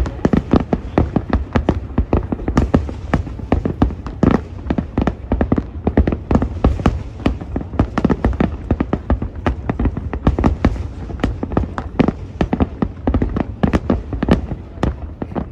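Aerial fireworks exploring in quick succession: a dense, irregular volley of sharp bangs and crackles, several a second, over a continuous low rumble.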